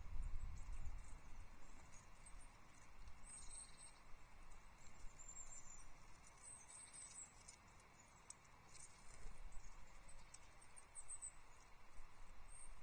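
Faint, thin, high-pitched calls of small songbirds: several brief chirps scattered through, over a low outdoor rumble that dies away in the first second or two.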